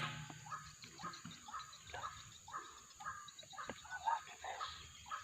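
White-breasted waterhens calling: a steady run of short, repeated croaking calls, about two a second.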